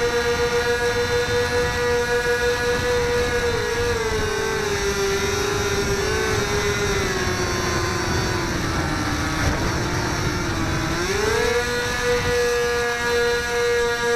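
Electric motor and propeller of a HobbyZone Firebird Delta Ray RC plane whining steadily, heard from the onboard camera with wind rumble on the microphone. The whine slowly drops in pitch from about four seconds in as the throttle eases, then rises quickly back to its first pitch near the end.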